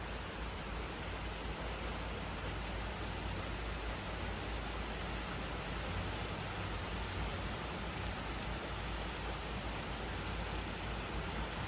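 Steady rain falling in a thunderstorm, an even hiss without breaks.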